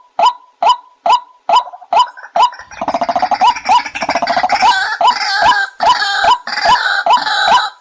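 White-breasted waterhen calling: a steady series of short, sharp notes a little over two a second. About two and a half seconds in, a denser run of rapid notes joins and overlaps them for the rest.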